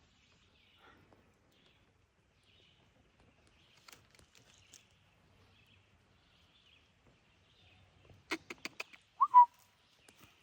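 Faint chirping, then a quick run of about five sharp clicks followed by a single short rising chirp, the loudest sound, near the end.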